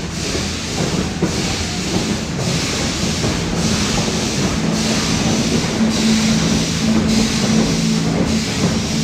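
Steam locomotive pulling the train, its hiss of steam pulsing in a slow, even rhythm about once a second, over a steady low drone of the train running.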